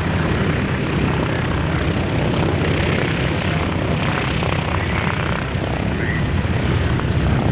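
Boeing B-17 Flying Fortress's four Wright Cyclone nine-cylinder radial engines running with propellers turning: a low, steady rumble.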